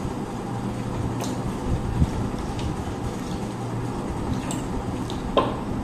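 Eating at a table: scattered small clicks and light knocks of food and hands against plates, the sharpest about five seconds in, over a steady low background hum.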